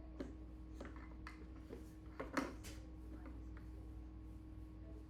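Parts of an electric pressure washer being handled and fitted together: a scatter of light clicks and knocks over the first few seconds, the loudest about halfway through, over a steady low hum.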